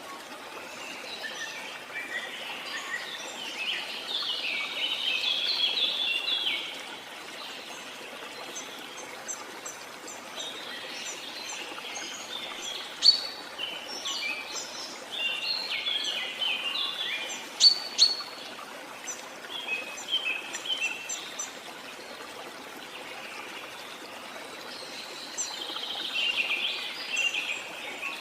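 Waterfall giving a steady rush of falling water, with bouts of quick, chattering bird calls over it, three times. Two sharp calls near the middle stand out.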